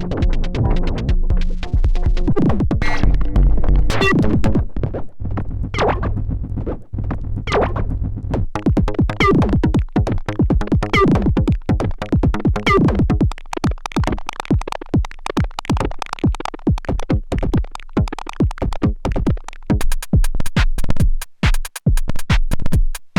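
Erica Synths Perkons HD-01 drum synthesizer playing a fast electronic drum pattern of synthesized kicks, toms and clicky percussion over pitched bass tones. It changes partway through, and near the end the bass drops away and only fast, sharp hits remain.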